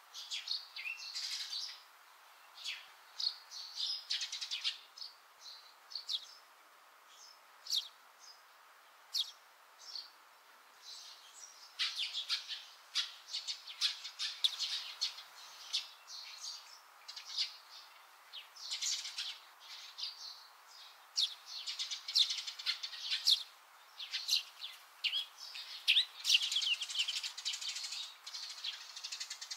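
Small birds chirping: many short, high calls in quick clusters, busier from about halfway on.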